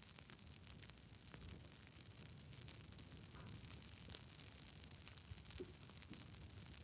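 Faint crackling of a wood campfire: scattered small pops and snaps over a soft hiss.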